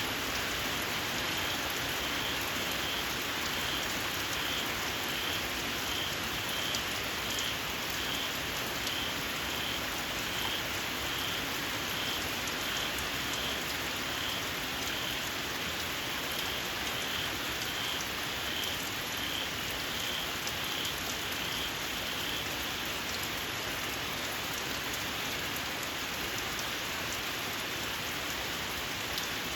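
Steady rain with a small frog repeating short, high-pitched calls at an even pace; the calls stop about three quarters of the way through while the rain goes on.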